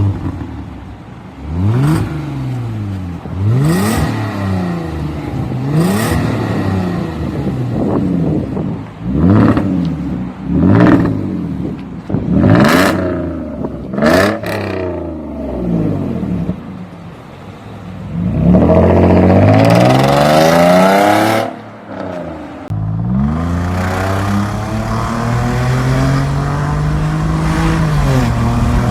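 Hyundai Genesis DH 3.3 V6 exhaust through a Sematech valved variable exhaust with a straight-piped mid-section: the engine is revved in a string of short blips, each rising and falling back, then held high for a couple of seconds. After that it settles into a steady note that slowly climbs in pitch.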